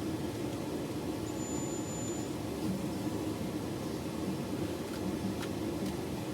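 A machine running steadily, a low hum under an even hiss, with a faint high whistle for about a second starting a little over a second in and a couple of faint clicks near the end.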